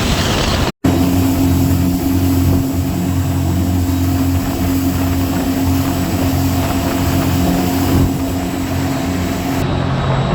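Scarab 165 ID jet boat's Rotax 1503 4-TEC three-cylinder engine running at a steady speed under way, over a haze of wind and water noise. The sound cuts out completely for a split second about a second in.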